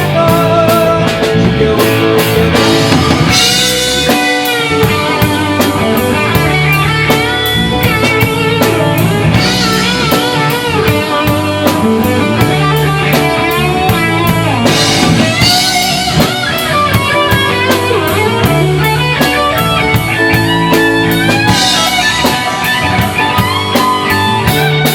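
Live rock band playing an instrumental passage: an electric guitar plays a lead line with bent, wavering notes over drums and bass, with no singing.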